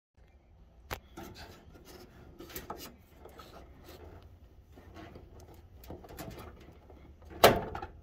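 Hands working a plastic wire-harness connector on a dryer's door switch: scattered rubbing and light clicks, then a loud snap about seven seconds in as the plug comes apart.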